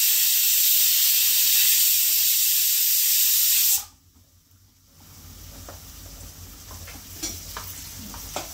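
Onions, green chilies and ginger-garlic sizzling loudly in hot oil in a nonstick frying pan. The sizzle cuts off abruptly about four seconds in, and after a moment of near silence a quieter sizzle returns with a metal spatula clicking and scraping against the pan as the mixture is stirred.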